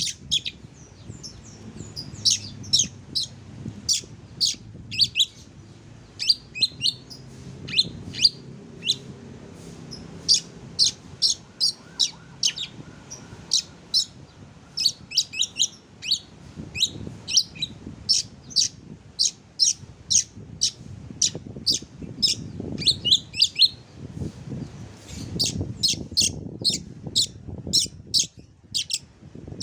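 Oriental magpie-robin (kacer) song: a long run of short, sharp, high notes, often several a second in quick clusters, over a faint low background hum.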